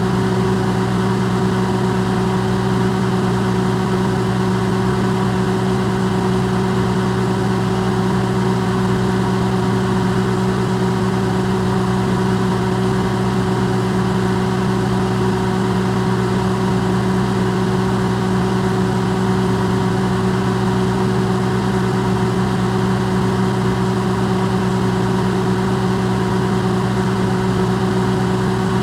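Electrolux microwave oven running: a steady, unchanging hum with a whirring hiss behind it, amplified.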